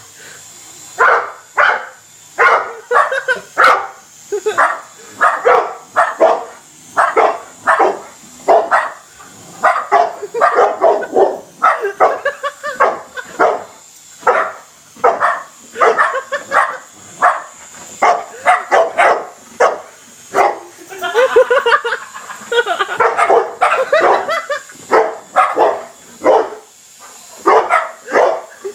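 Dog barking excitedly and without pause, about two barks a second, at a helicopter buzzing over it, running into a rougher, rapid stretch of barking near the middle. A faint steady high whine sits underneath.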